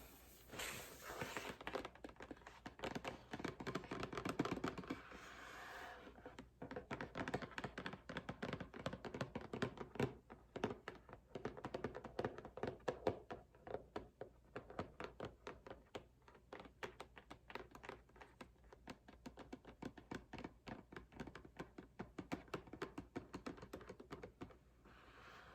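Fingers scratching and rubbing on a cardboard box, then tapping on it rapidly with the nails, several light taps a second from about six seconds in.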